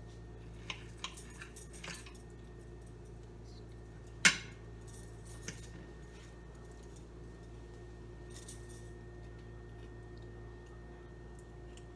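Cutlery clinking against a plate: a few light clinks, then one sharp, much louder clack about four seconds in and a smaller one just after.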